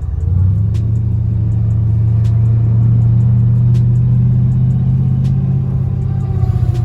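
3-valve V8 in a 2001 Ford Mustang GT running steadily with a low rumble, its pitch rising slightly in the first half second and then holding.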